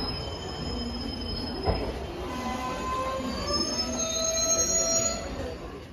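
Passenger train wheels squealing on the rails in several steady high tones over the low rumble of the running gear, with one knock about two seconds in. The squeal grows louder around four to five seconds in, then fades near the end.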